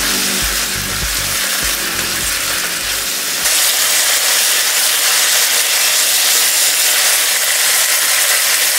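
Stir-fry of cabbage, onion and minced pork in a hot wok, stirred with a spatula. About three seconds in, a loud steady sizzle and hiss starts suddenly, as a little water hits the hot pan to keep the chili-powder mixture from burning. Background music plays at the start.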